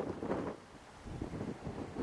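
Strong, gusty wind buffeting the microphone in irregular blasts, easing briefly in the middle.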